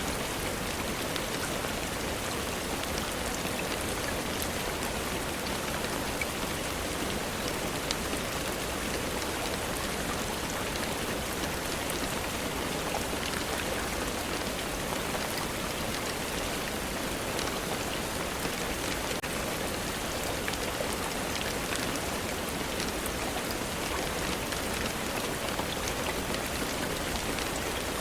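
Steady rainfall: an even hiss with many small drop ticks.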